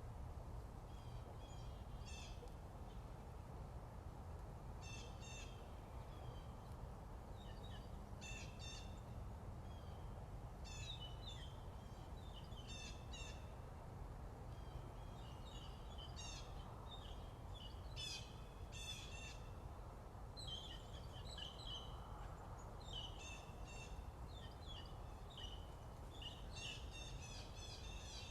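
Morning birdsong: small birds singing short, high chirping phrases, one every second or two, over a steady low background rumble.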